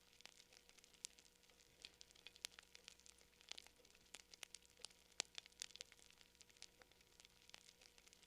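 Campfire crackling: faint, irregular sharp pops and snaps of burning wood, several a second, over a soft hiss.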